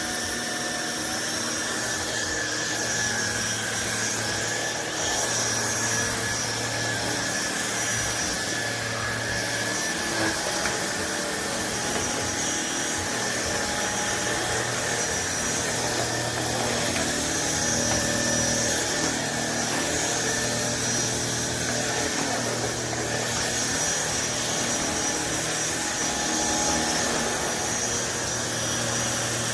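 Trucozie cordless stick vacuum running steadily: a high-pitched motor whine over rushing air.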